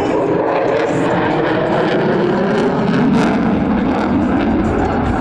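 Loud, steady jet noise from an F-22 Raptor's twin F119 turbofan engines, with a crackly edge about three seconds in.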